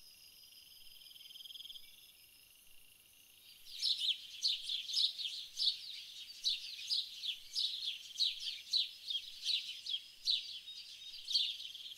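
Insects trilling steadily and high-pitched, then from about four seconds in a bird calling in a fast series of short, high chirps, two or three a second.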